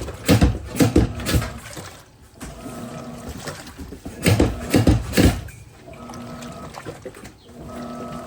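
Electrolux Turbo Capacidade Premium 15 kg top-loading washing machine agitating a load after the soak: water and clothes slosh in loud bursts every few seconds, with a steady hum in between.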